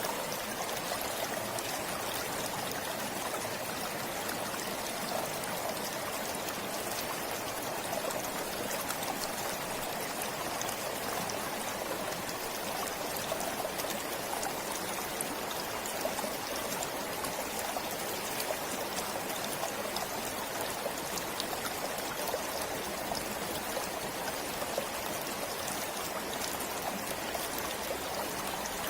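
A forest stream flowing steadily, water trickling and splashing over stones.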